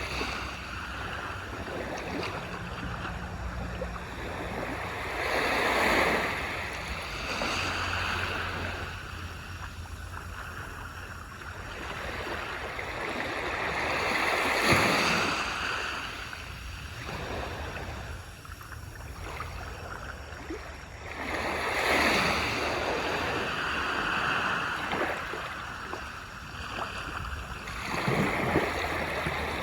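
Ocean surf breaking on a beach: a continuous wash of water that swells as each wave breaks, four times several seconds apart, then falls back.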